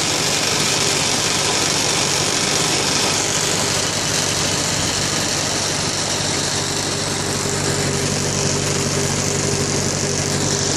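Farm tractor engine running steadily as the tractor drives along, heard up close from aboard, with a constant low hum under a broad rushing noise.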